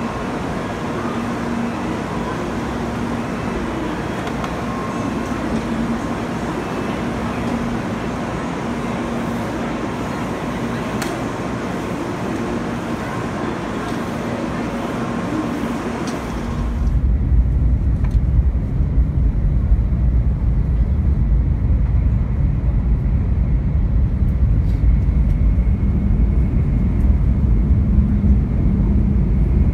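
Shinkansen train rolling into a station platform and coming to a stop: a steady broad hiss with a faint electric hum. A little past halfway the sound changes abruptly to a deep, muffled rumble with the high end gone.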